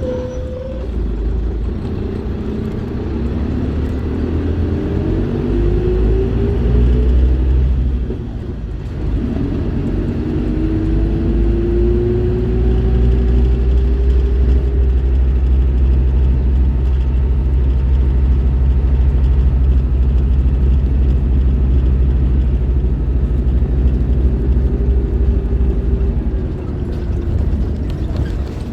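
Scania K310IB bus's five-cylinder diesel engine pulling under load, its note rising with the revs, breaking off briefly about eight seconds in at a gear change, rising again and then holding a steady, strong low drone as the bus cruises.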